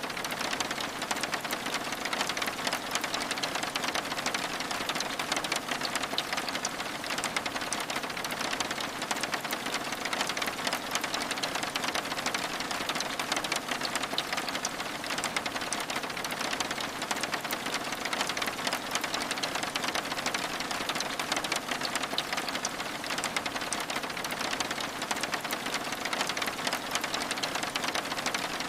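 Steady rain on window glass: an even hiss of falling rain thick with fine ticks of drops.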